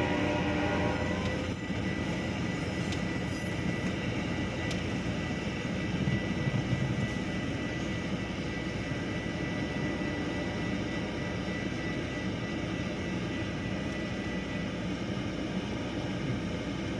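Metra bilevel commuter train rolling through a grade crossing and pulling away, a steady rumble of wheels on rail. A high steady ringing from the crossing signal's bell carries over it and stops about a second before the gates go up.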